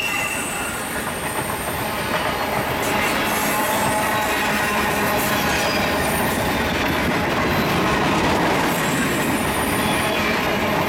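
Freight train of covered grain hopper cars rolling past close by: a steady rumble and rattle of wheels and cars on the rails, with thin, high wheel squeals near the start and again late on.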